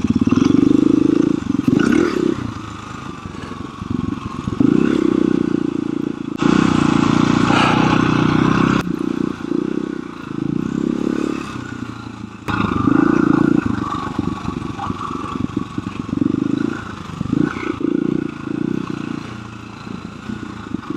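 KTM 350 EXC-F single-cylinder four-stroke dirt bike engine under load on a steep rocky climb, the throttle opened and closed in repeated short bursts. Rocks clatter and scrape under the tyres, with a stretch of louder rushing noise about six to nine seconds in.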